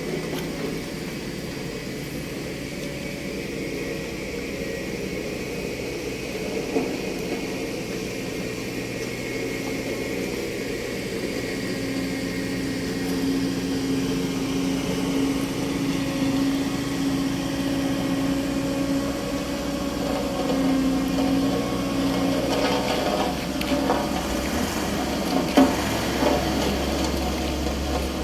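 Large vehicle engine running steadily, a pitched hum that grows a little louder over time, with a few sharp knocks near the end.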